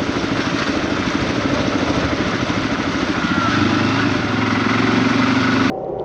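Small off-road vehicle engine running while riding, under a steady rushing noise; the engine note firms up about halfway through. Near the end the sound cuts off abruptly to a much quieter scene.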